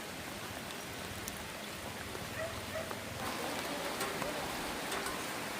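Steady rain falling, an even hiss with scattered faint drop ticks, a little louder about three seconds in.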